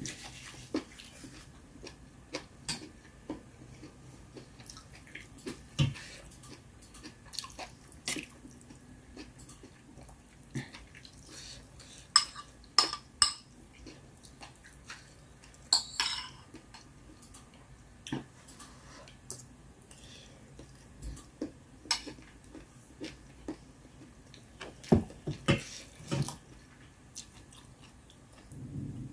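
Eating at a bowl: chopsticks and spoon clicking and tapping irregularly against the dish, with chewing between the taps.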